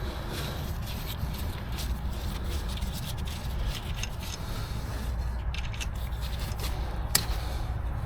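Scraping and rubbing with scattered light clicks, as of hand tools and metal parts handled during brake work, with one sharper click about seven seconds in. A steady low rumble runs underneath.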